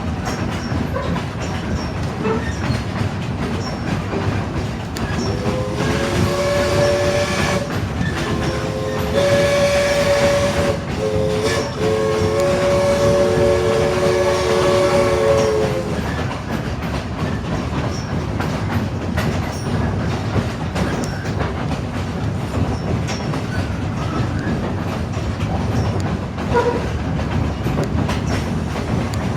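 Steam locomotive No. 16's chime whistle sounds a chord in several blasts for about ten seconds: a long one, a second long one, a short one, then a final long one. Under it the train rolls along steadily with the click of the rail joints.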